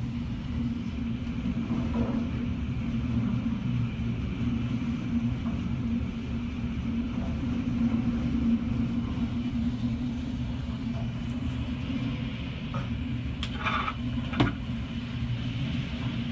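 Hurricane wind heard from indoors through thick window glass as a steady low rumble, with a constant low hum beneath it. A single sharp knock comes near the end.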